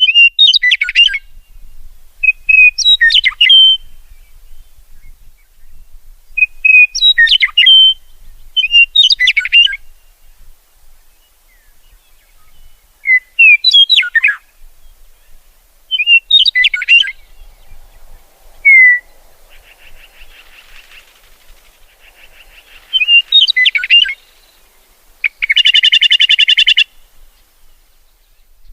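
A songbird singing short, warbled phrases of about a second each, repeated every two to three seconds with brief pauses. A fainter buzzy trill comes in past the middle, and a loud, harsh buzzing rattle follows near the end.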